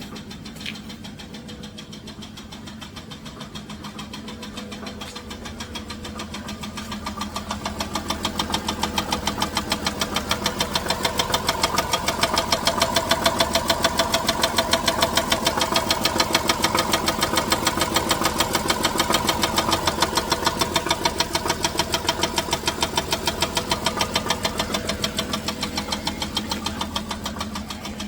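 2007 Dodge Grand Caravan V6 running with a fast, rhythmic knock. It grows louder for several seconds, holds, then eases back near the end. The owner suspects loose torque converter bolts.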